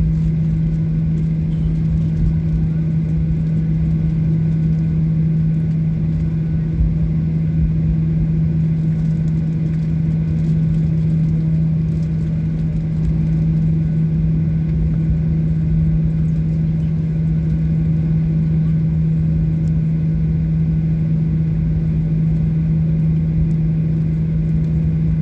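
Steady cabin drone inside a Boeing 737-800 on the ground before takeoff, with one constant low hum over an even rumble.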